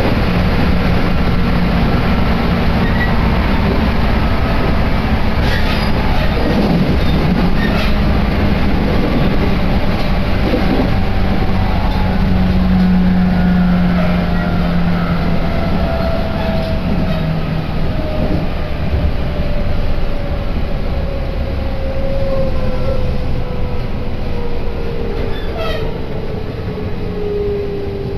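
Interior running noise of a Tokaido Line electric train moving between stations: a steady rumble from wheels and running gear, with a whining tone that slowly falls in pitch over the second half.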